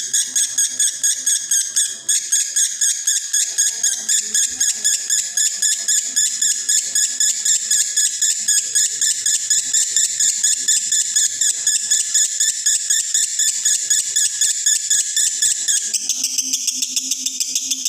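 Male lovebird in breeding condition singing a long unbroken 'konslet' song: a fast chatter of high repeated notes, about four a second. Near the end it shifts to a quicker, thinner pattern.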